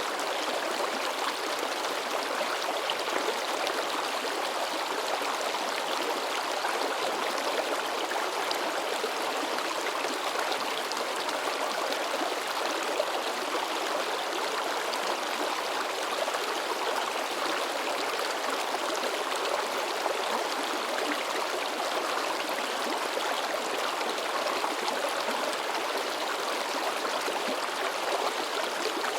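Mountain river babbling and splashing over rocks, steady and unbroken.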